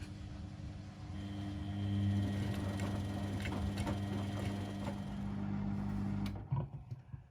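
Washing machine running a wash phase: a steady motor hum turning the drum, with light clicks and knocks from inside. The motor stops abruptly about six seconds in, followed by a few clunks as the drum comes to rest.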